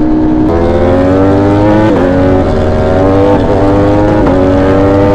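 V4 sport-naked motorcycle engine accelerating hard, rising in pitch through the gears with about three quick upshifts.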